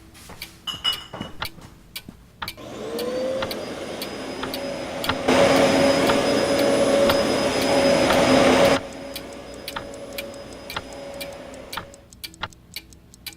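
An electric motor switches on about two and a half seconds in, its whine rising quickly to a steady pitch over a rushing noise. It gets much louder for about three and a half seconds in the middle, then drops back and stops about twelve seconds in. A clock ticks steadily throughout.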